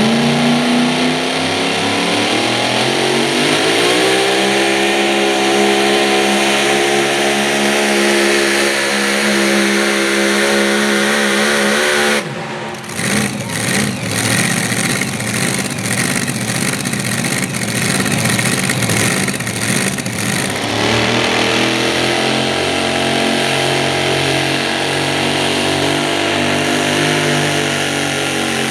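A super modified four-wheel-drive pulling truck's engine at full throttle, rising in pitch and then holding a steady high note. About twelve seconds in, the note breaks off abruptly into about eight seconds of ragged, uneven popping. It then settles back to a steady, lower running note.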